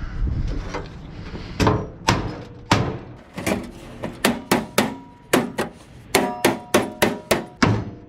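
The bell chime inside an old microwave oven's timer being struck over and over: about twenty sharp taps coming faster and faster, the later ones ringing with a short, clear bell tone.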